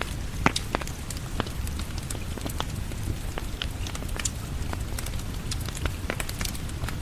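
Wood fire crackling, with irregular pops and one sharper pop about half a second in, over steady rain.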